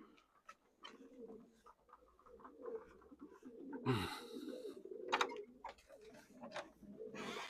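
Racing pigeons cooing in the loft, a low murmur with scattered sharp clicks and two short rushes of noise, about four seconds in and near the end.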